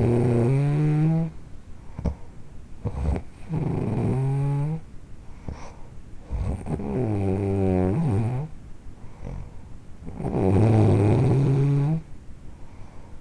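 Loud snoring: four long pitched snores, roughly one every three seconds, with quieter breathing between them.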